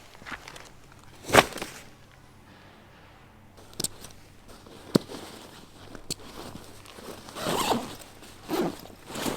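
Camping gear being handled by hand: a few sharp single clicks and knocks spaced a second or more apart, then three short rasping pulls near the end.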